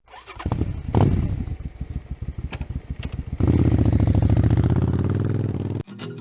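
A small engine running with a rapid, even putter, becoming louder and steadier about three and a half seconds in, then cutting off suddenly near the end.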